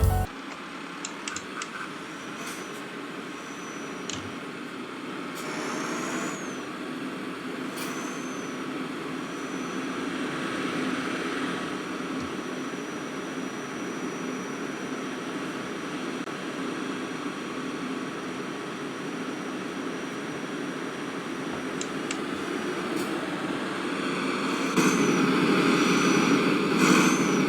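Steady rushing noise of a running vehicle engine and moving air, growing louder near the end.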